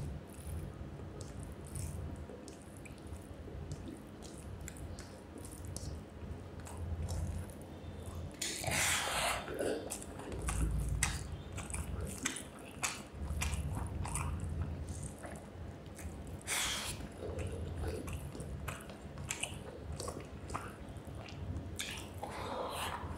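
Close-miked mouth sounds of a person chewing rice with fish curry and brinjal fry: wet smacking, squishing and clicking throughout, with a few louder wet sounds about a third of the way in, past the middle and near the end.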